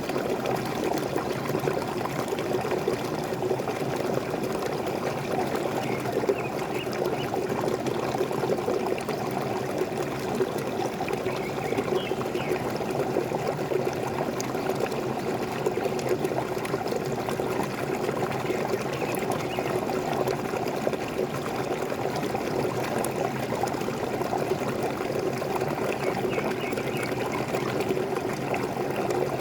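Waterfall: a steady rush and splash of falling water, with a few faint high chirps from birds now and then.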